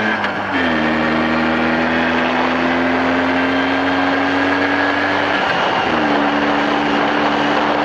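Jawa 634 two-stroke twin-cylinder motorcycle engine running steadily. Its pitch dips briefly twice, about half a second in and again about five and a half seconds in, then settles back and rises slowly.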